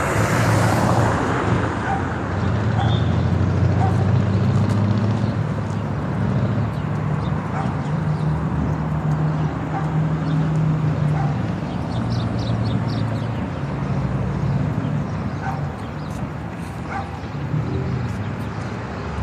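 Street noise: engines running low and steady, with a dog barking now and then.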